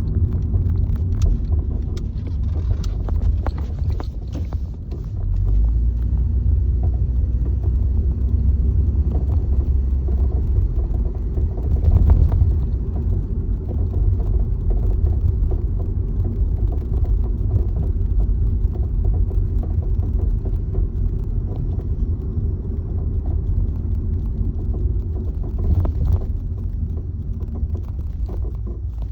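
Honda Accord (CU2) on the move, with a steady low rumble and a few short knocks at irregular moments: the abnormal noise from the right front suspension, cause unknown.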